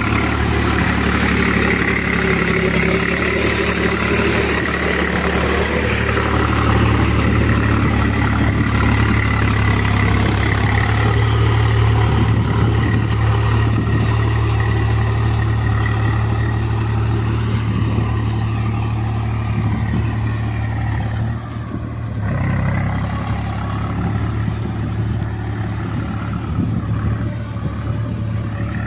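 Swaraj 735 FE tractor's three-cylinder diesel engine running steadily. About three-quarters of the way through it dips briefly, then carries on slightly lower.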